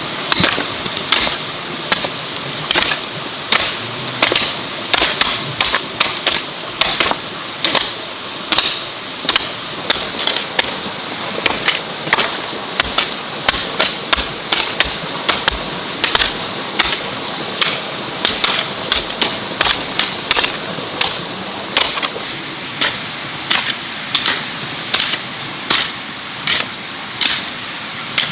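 A hand tool striking repeatedly, roughly one to two sharp strikes a second in an uneven working rhythm, over a steady background hiss.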